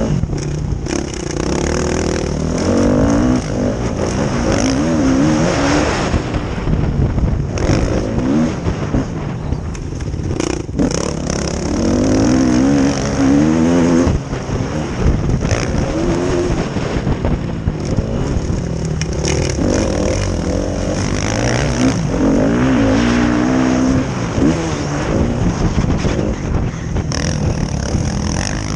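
Motocross bike engines racing, their pitch repeatedly rising as they rev up and dropping back, again and again.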